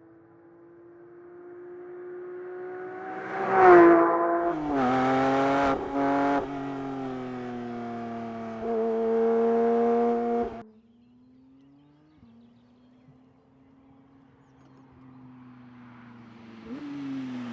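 Porsche 911 GT3's naturally aspirated flat-six engine being driven hard. The note swells, rises and then drops sharply in pitch about four seconds in, carries on loud with a raspy edge, and cuts off abruptly about ten seconds in. A quieter engine note follows and rises again near the end.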